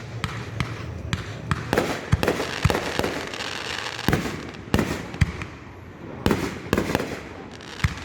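Fireworks going off: an irregular run of sharp bangs, several close together at times, with crackling in between.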